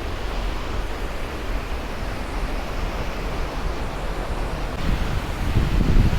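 A 35-metre waterfall in heavy flow: a steady rush of water crashing down. Near the end, gusts of wind rumble on the microphone.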